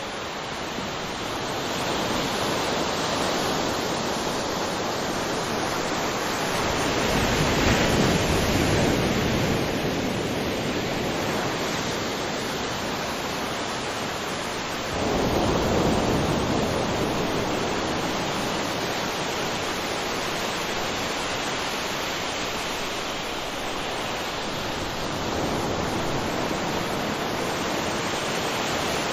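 Steady rushing of falling water, a dense even roar that swells about a third of the way in and jumps up abruptly about halfway through.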